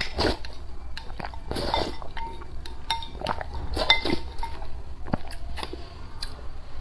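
Eating utensils clinking against bowls and dishes: a string of light clicks and knocks, several of them ringing briefly.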